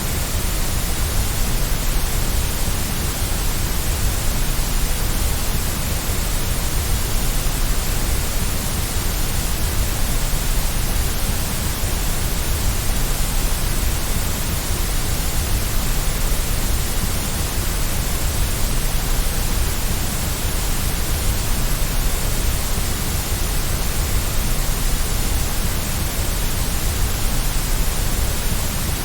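Steady white noise: an even, unchanging hiss across the whole range, with extra weight in the low end.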